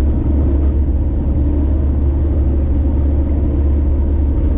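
Car driving on a highway: a steady low rumble of engine and road noise.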